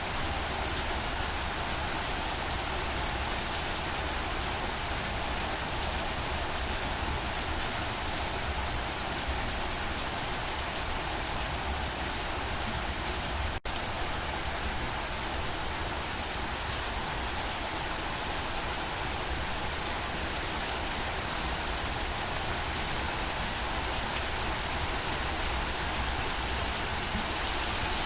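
Steady, dense rain falling on a surface, an even hiss of many drops. It cuts out for an instant about halfway through.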